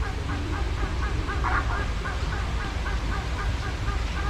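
Birds in an aviary calling over and over in quick succession, about three or four short calls a second, with one louder call about a second and a half in, over a low steady rumble.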